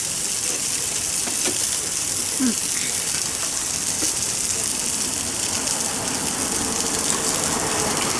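Steady hiss of heavy rain mixed with food sizzling on a hot grill, with a few faint ticks.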